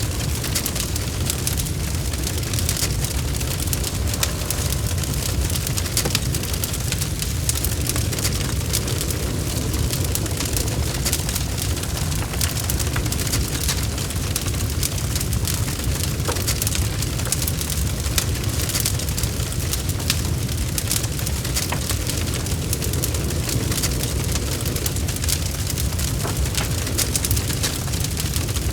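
Log fire burning steadily, with a constant low rumble of the flames and many small crackles and pops from the burning wood.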